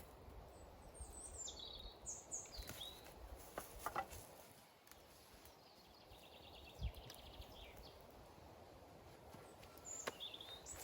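Small songbirds calling faintly: a few short high chirps that drop in pitch, a quick trill about halfway through, and more chirps near the end. A few soft clicks or knocks sound against a low background hush.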